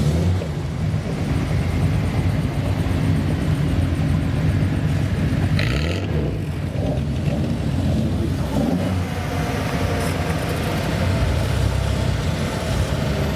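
Car engine running with a steady low exhaust rumble, with a short high-pitched sound about halfway through.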